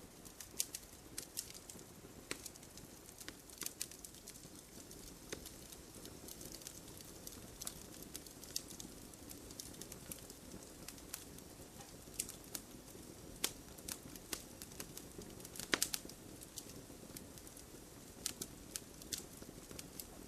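Wood campfire crackling, with irregular sharp pops over a faint low hiss of the flames; a louder cluster of pops comes about 16 seconds in.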